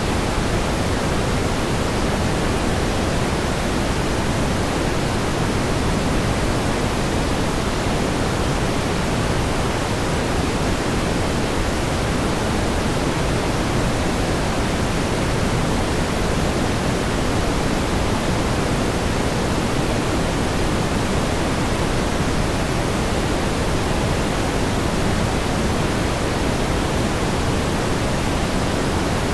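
Steady pink noise: an even hiss, strongest in the low and middle range and softer in the highs, with no change over time.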